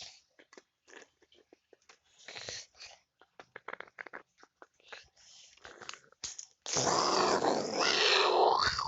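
Scattered light clicks and taps, then about seven seconds in a loud dog growl lasting about two seconds.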